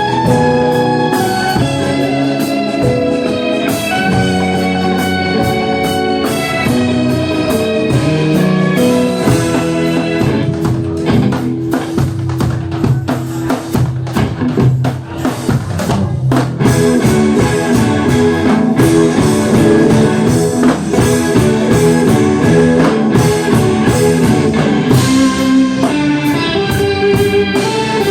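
A band playing an instrumental passage with guitar and drums, with no singing. About halfway through, the playing changes to a busier, faster-moving pattern.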